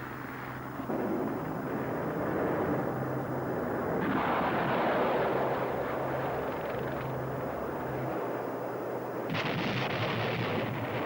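Westland Lynx helicopter running, a steady rushing noise with a low hum. The rushing grows louder twice: from about four seconds in for a few seconds, and again near the end.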